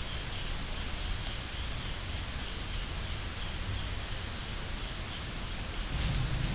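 Small birds calling, with short high whistles and a quick run of about eight repeated chirps, over a steady outdoor hiss with a low rumble.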